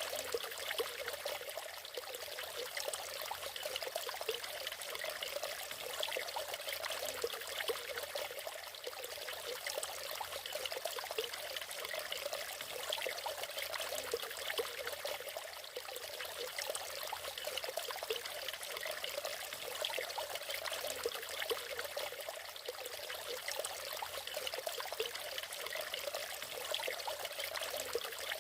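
Water falling and splashing at a natural waterfall, a steady, continuous rush with a bubbling, trickling texture.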